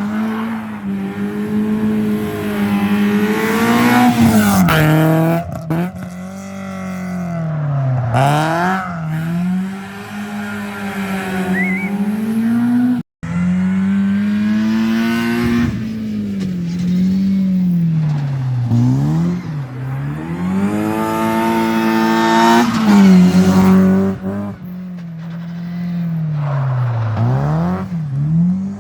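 Rally car engines driven hard on a stage, revving up and dropping off again and again as they brake, shift and accelerate through corners. The sound cuts out briefly about halfway through, and a second run follows with the same rise-and-fall engine note.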